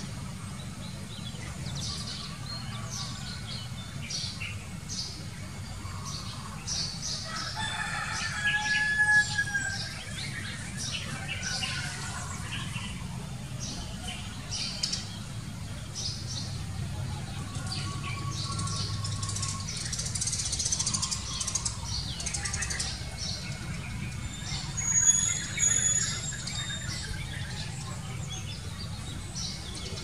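Birds chirping and calling: many short high chirps throughout, with a few clear whistled notes around 9 seconds and again around 18 seconds, over a steady low rumble.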